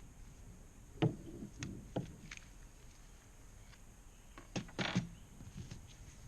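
A few irregular knocks and thumps, in two clusters about three seconds apart, as a boat cover is handled and snapped down onto the boat.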